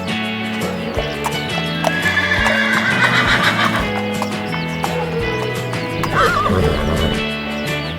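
A horse whinnying over steady background music: a long falling neigh about two seconds in, and a shorter quavering whinny about six seconds in.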